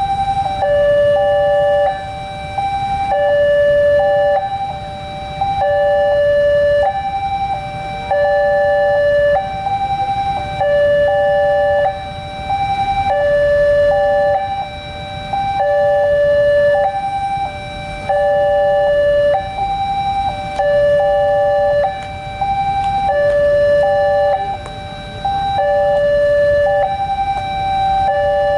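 Indonesian railway level-crossing warning alarm sounding: an electronic two-tone signal alternating steadily between a higher and a lower note, the pattern repeating about every one and a half seconds, which signals that a train is approaching. A low rumble runs underneath.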